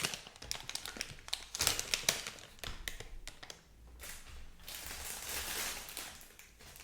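Light, rapid tapping and clicking with fingertips or nails on small objects, then a soft rustling hiss for about two seconds near the end.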